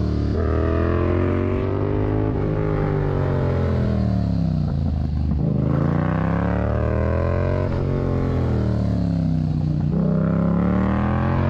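Yamaha MT-07's 689 cc parallel-twin engine through a Mivv aftermarket exhaust under way: its revs climb and fall several times as the rider accelerates and rolls off, with short breaks in the note between.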